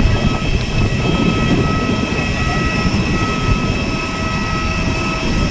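Airbus A320-200's jet engines running: a steady rushing noise with thin, high whining tones over it.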